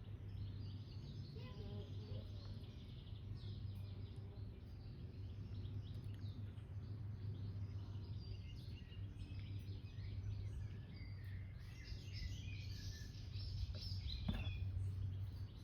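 Songbirds chirping and singing in a busy chorus, thickest near the end, over a steady low rumble, with one sharp click about a second before the end.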